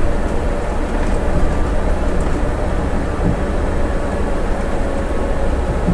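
Scania bus engine and road noise heard from the driver's seat, a steady drone while the bus rolls down a mountain grade in gear.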